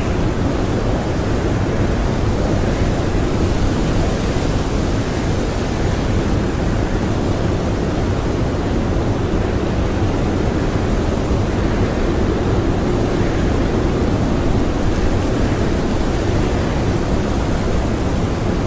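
Blizzard winds howling: a steady, dense rush of wind that swells slightly now and then but never lets up.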